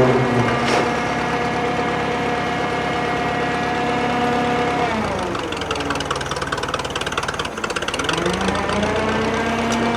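The Drott 85RM2 crane's engine running steadily. About five seconds in, its speed sags over a couple of seconds and then climbs back up near the end.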